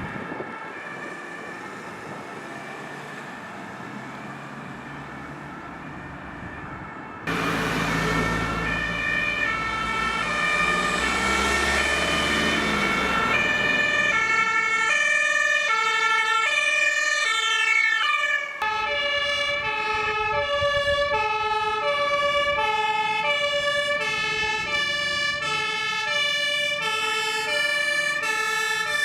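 German fire-brigade two-tone sirens (Martinshorn) alternating high and low on vehicles driving under emergency signals. About seven seconds in one becomes suddenly loud with engine and road noise as it passes close, its pitch sliding down as it goes by; after a cut, another vehicle's two-tone siren alternates steadily.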